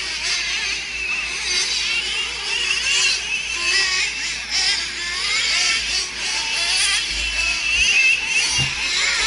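Several nitro-powered RC race trucks' small glow-fuel engines revving and whining together as they race, their high-pitched notes overlapping and rising and falling constantly.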